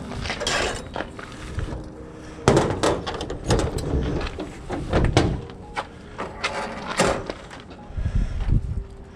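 Irregular knocks and clunks with some scraping from a refrigerator being moved and handled, the loudest knock about two and a half seconds in.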